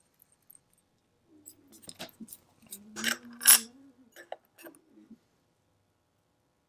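Small metal clicks and taps of tools handling watch parts, with a brief murmured vocal sound from the person about three seconds in.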